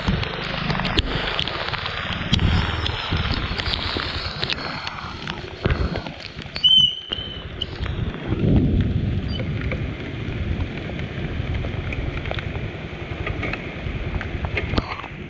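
Wind buffeting the microphone over road and vehicle noise while riding in the rain, with a short high squeak about seven seconds in.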